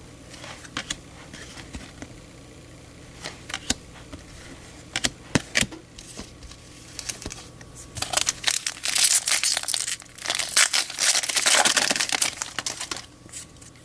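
A few light clicks and taps of handling, then the crinkly wrapper of a Topps baseball card pack being crumpled and torn open in a run of crackling bursts from about eight seconds in until near the end.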